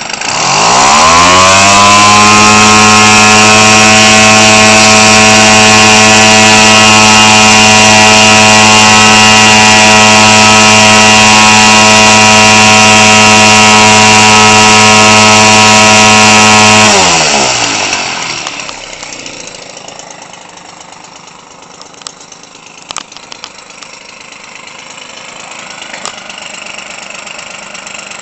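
Converted Weed Eater Featherlite 25cc two-stroke model-airplane engine swinging a large propeller. It revs up quickly to full throttle and holds a loud, steady top speed of around 6700 rpm for about fifteen seconds. It then throttles back down to a quiet, smooth idle.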